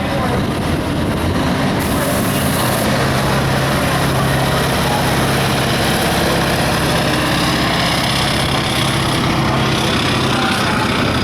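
Pulling truck's engine running loudly and steadily.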